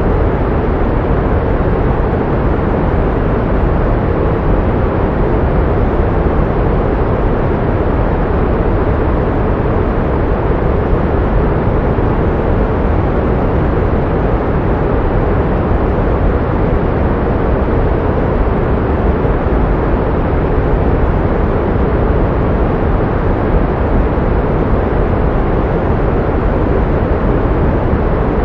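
Synthetic pink noise used as a tinnitus-masking sound: a steady, unchanging rush with its weight in the low end, thinning out toward the highs.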